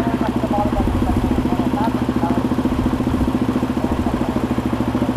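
Motorcycle engine idling steadily, its exhaust giving a fast, even beat of pulses.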